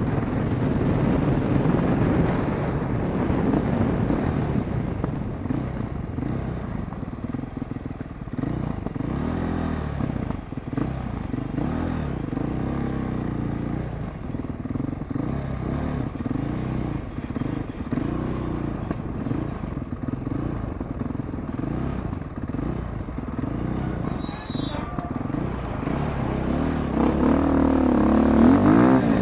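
Motorcycle engine running while riding, its pitch rising and falling again and again as the throttle opens and closes, over a low rush of wind and road noise. Near the end it revs up louder.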